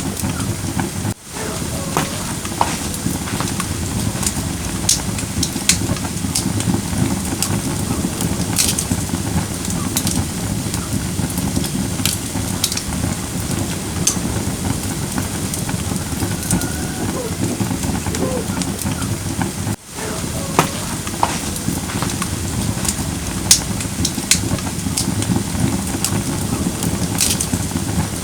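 Firewood burning in a fire pit: a steady low rush of flames with scattered sharp crackles and pops. The sound drops out briefly twice, about a second in and again near the middle.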